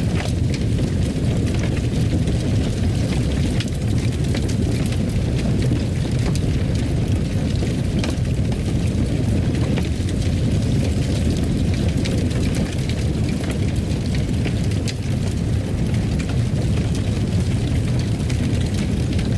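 Wood fire in a fireplace burning steadily: a low rumble with frequent small, irregular crackles and pops.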